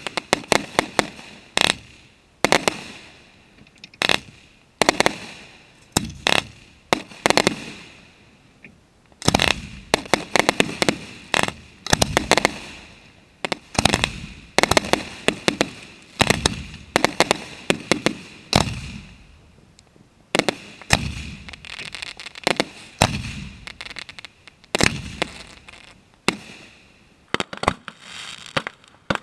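Professional aerial fireworks display: shells bursting in quick succession, dozens of sharp bangs with echoing tails. There is a brief lull about eight seconds in and a rapid cluster of bangs near the end.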